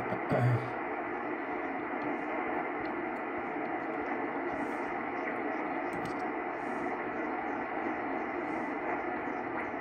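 Yaesu FT102 shortwave receiver hissing with steady band noise and static through its speaker while tuned to the 80 metre band, the sound narrowed to the receiver's voice-width passband. A brief low thump about half a second in.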